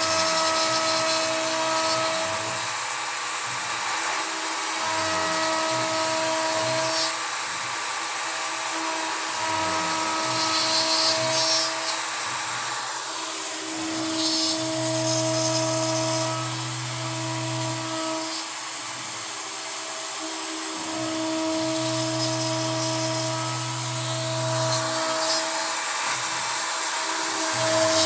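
CNC router with a Kress router spindle milling pine with a 3 mm end mill: a steady high whine and hiss, with pitched whining tones that start and stop every second or two as the machine moves. The sound drops quieter for a stretch in the middle and comes back up near the end.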